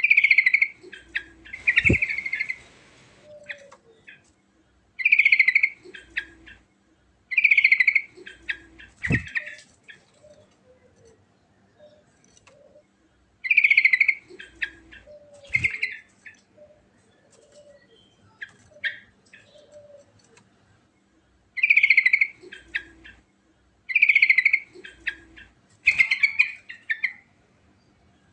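Yellow-vented bulbul (trucukan) singing: bubbly phrases about a second long, repeated every two to three seconds with gaps between groups. A few sharp low knocks sound in between.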